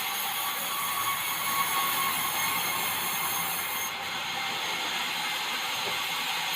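Sawmill saw running steadily through white meranti wood: an even, hissing whine with faint steady tones and no breaks.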